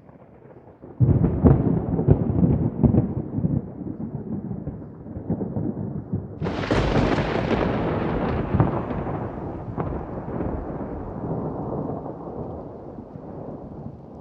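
Thunder over rain: a rolling rumble of thunder breaks in about a second in, then a sharper, brighter thunderclap about six and a half seconds in rolls on and slowly fades.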